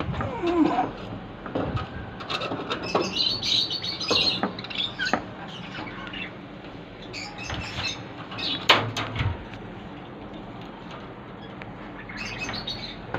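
Budgerigars chirping in short, scattered calls, with a few sharp taps mixed in.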